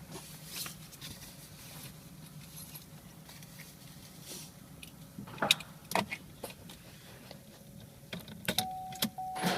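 Car keys jangling with a few sharp clicks. Near the end the car's warning chime starts, one steady tone repeating on and off, as the key goes into the ignition.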